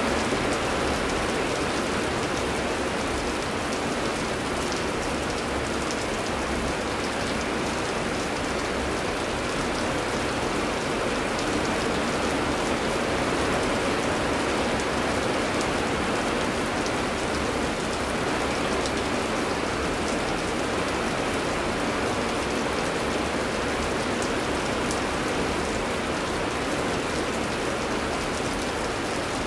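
Heavy rain falling steadily: an even, unbroken hiss with scattered drops pattering through it.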